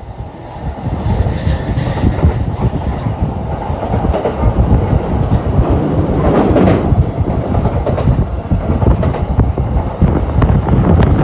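Doctor Yellow, the Shinkansen track-inspection train, running on the line with a steady rumble of wheels on rail. The sound builds up over the first second and swells about six and a half seconds in.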